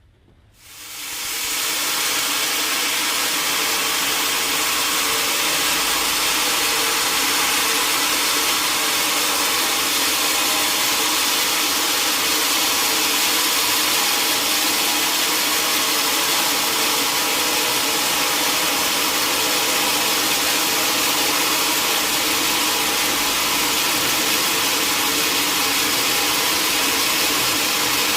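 Sawmill saw machinery running: the noise comes up about half a second in and settles into a loud, steady, even whirr with a constant hum underneath.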